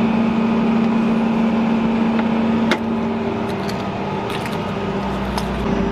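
Vehicle engine idling steadily with an even hum. A sharp click comes about three seconds in, and a few light ticks follow.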